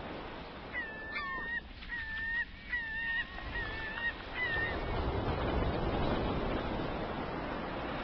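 Birds calling: a run of about six short calls, each a held pitch that ends in a quick upward flick, over a background hiss. From about halfway through, a rushing noise swells up and covers them.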